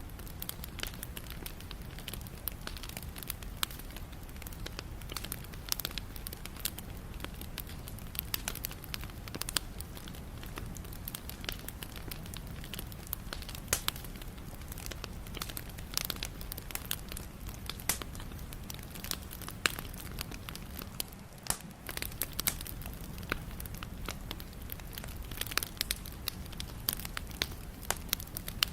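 Wood fire burning, with many sharp irregular crackles and pops over a low steady rumble of the flames.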